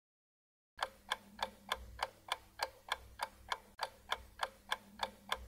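Clock-ticking sound effect marking a countdown timer for answering: even, sharp ticks about three a second, starting nearly a second in.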